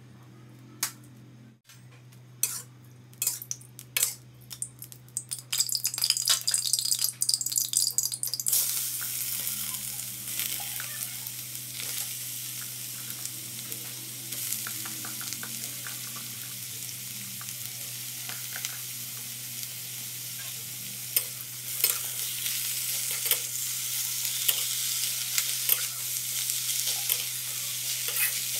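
Hot oil crackling and spitting in a wok, then about eight seconds in a sudden loud sizzle as sliced ginger goes into the oil. The sizzle continues as the ginger is stir-fried, with many small clicks and scrapes, over a steady low hum.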